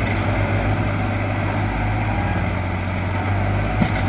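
Diesel tractor engine running steadily, with a brief knock about four seconds in.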